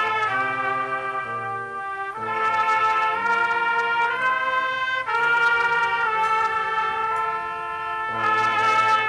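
Brass band playing a slow piece in long held chords, changing every second or two.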